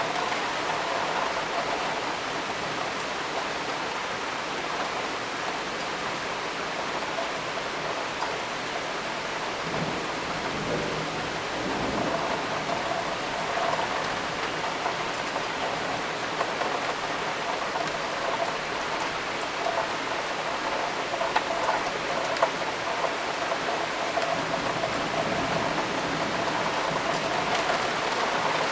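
Steady rain falling, with a few louder drop ticks scattered through it.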